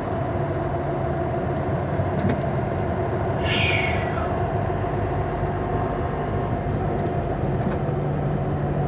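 Steady engine and road noise heard inside a moving car's cabin, with a low hum and a steady mid-pitched tone. A brief hiss comes about three and a half seconds in.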